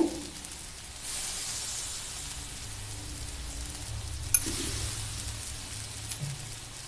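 Chickpea and tomato chaat sizzling in a hot shallow pan, the hiss growing louder about a second in as lemon juice is squeezed over it. A single sharp clink about halfway through.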